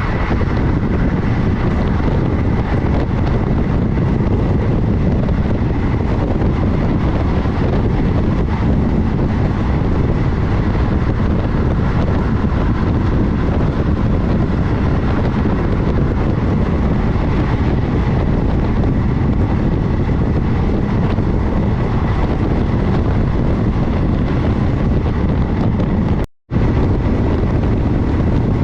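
Steady running rumble of a passenger train moving at speed, with wind buffeting the microphone. The sound drops out for a moment near the end.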